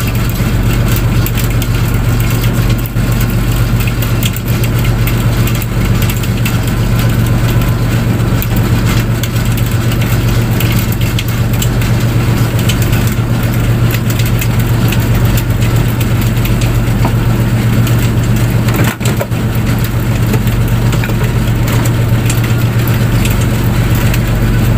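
A fishing boat's engine running at a steady speed, a constant low drone, with a rushing haze of wind and water noise over it.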